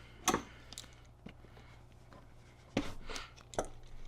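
A few short, sharp knocks and clatters from work on a motorcycle seat, over a low steady hum: one about a third of a second in and a quick run of three in the second half.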